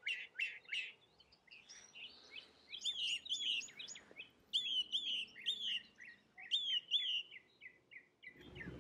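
A songbird singing: bouts of short, sweeping whistled chirps repeated a few times a second, with brief pauses between the bouts.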